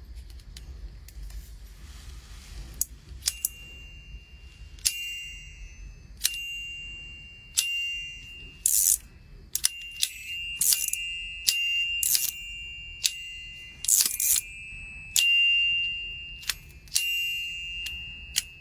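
Small metal fidget toy being clicked and snapped repeatedly. Many of the sharp metallic clicks are followed by a short ringing tone that fades away.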